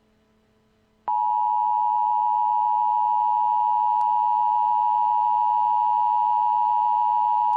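Emergency alert attention tone: a single steady electronic tone that starts abruptly about a second in after a moment of near silence, then holds at one pitch, announcing a tornado warning.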